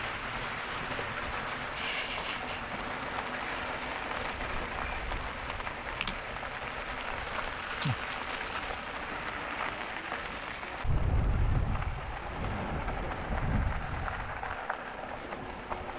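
Wind rushing over the microphone and tyre noise from an e-bike rolling along the trail, a steady hiss. From about eleven seconds in, low rumbling wind gusts buffet the microphone loudly.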